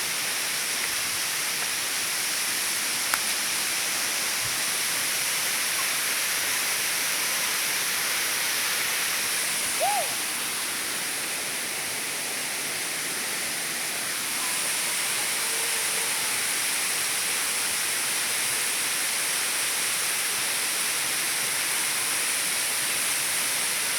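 Waterfall rushing with a steady, unbroken roar of falling water. A short chirp sounds once about ten seconds in.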